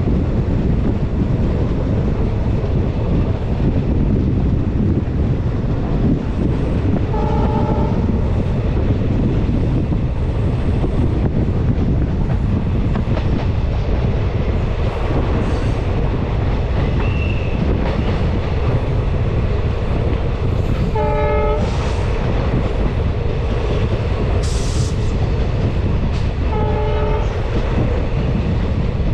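Passenger train running along the line, heard from a coach: a steady low rumble of wheels on rail, with three short blasts of the locomotive horn, about 7, 21 and 27 seconds in.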